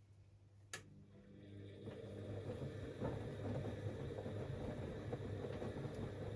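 Siemens Extraklasse XLs 140 A front-loading washing machine mid-wash: a single click a little under a second in, then the drum starts turning again, the sound rising over about two seconds to a steady running noise.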